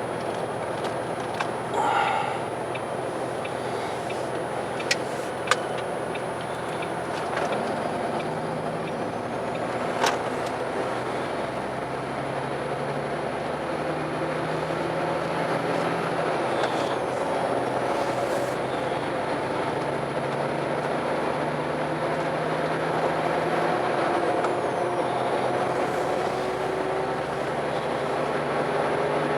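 A car driving, with a steady engine hum and road noise throughout, and two sharp clicks about five seconds in.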